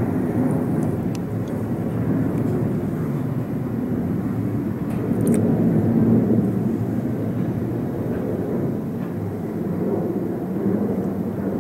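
Steady low rumble of aircraft noise.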